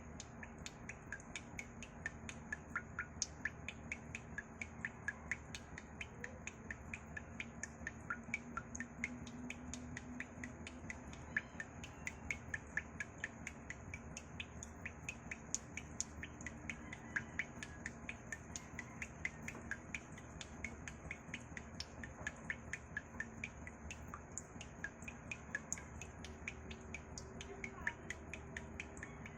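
Water droplets dripping, each drop landing with a short, high plink, two or three a second in an uneven rhythm.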